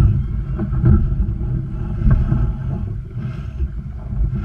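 Wind buffeting the microphone aboard a sailboat under way, a heavy low rumble that swells and eases.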